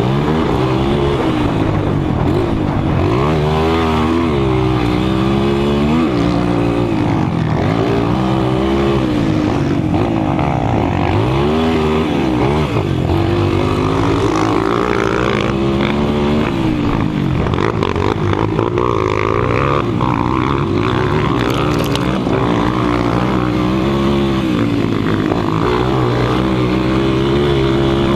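200 cc motocross motorcycle engines running hard, the pitch repeatedly rising and falling as the throttle opens and closes and gears change.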